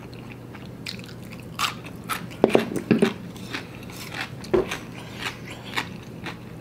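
Close-miked chewing of a mouthful of noodles: wet mouth clicks and smacks, loudest about two and a half to three seconds in and again a little past four seconds.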